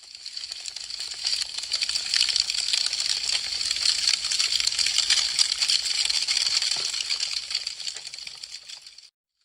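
Wood fire crackling, a dense run of small sharp pops and snaps. It fades in at the start, stays strong through the middle and fades out to silence near the end.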